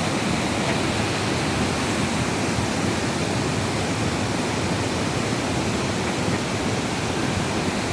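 Heavy downpour of rain, a steady, even rushing noise.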